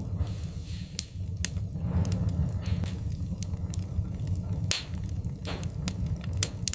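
Wood-burning fire crackling: sharp pops and snaps at irregular intervals over a steady low rumble, with a few short hisses.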